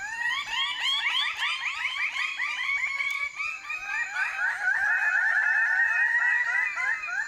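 Lesser birds of paradise calling in a fast, continuous run of short rising notes.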